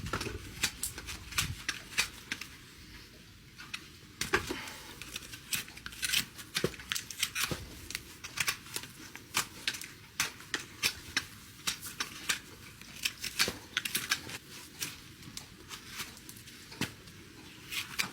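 Farrier's hoof-trimming tools cutting a horse's hoof horn: sharp, irregular clicks and snips, about one or two a second.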